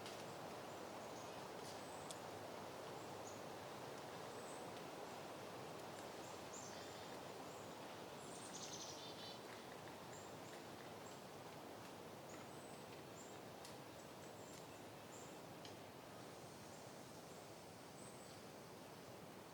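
Soft wind, a faint steady hiss, with faint bird chirps scattered through it and a short twittering run about eight or nine seconds in.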